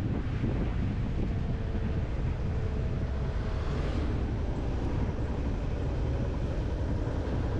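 Wind rushing over the microphone and a Yamaha FZ-X's 149 cc single-cylinder engine running steadily while the motorcycle is ridden along at speed.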